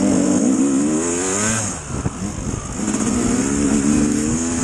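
Dirt bike engine running under throttle, its pitch wavering up and down as the rider works the throttle. About two seconds in it drops off briefly, then picks up again.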